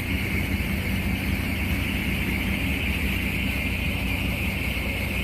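Truck engine idling steadily, with a steady high hiss over it.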